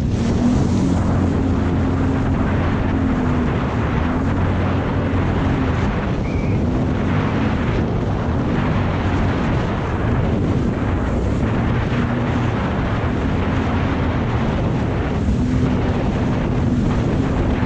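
Jet ski engine running under way, its pitch wavering up and down with the throttle, over heavy wind noise on the microphone.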